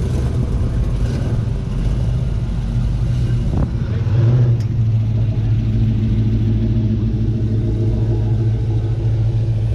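A car engine running low and steady as the car drives slowly past, swelling briefly about four seconds in.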